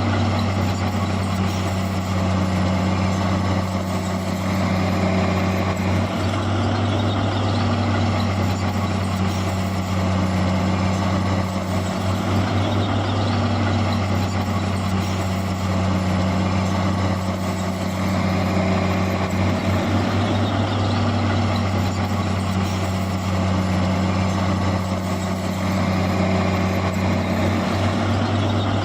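Heavy diesel engine running steadily with a deep hum, its load rising and easing every several seconds.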